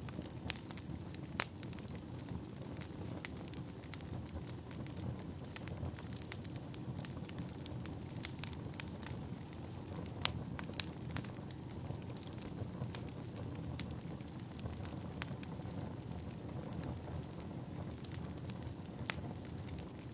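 Burning firewood crackling: a steady low rumble of flames with frequent sharp pops and snaps, a few of them louder, the loudest about ten seconds in.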